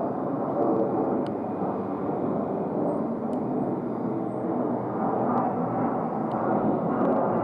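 Bombardier Challenger 601 business jet's twin turbofan engines: a steady rushing jet noise at an even level, with no clear whine.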